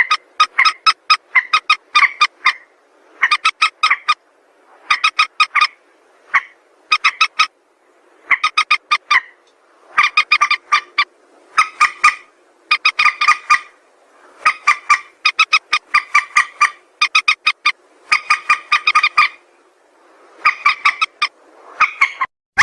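Mandar sawah, a rail, calling in repeated bursts of rapid, harsh clucking notes, each burst lasting about a second and following the last after a short pause. This is a bird-luring (pikat) call.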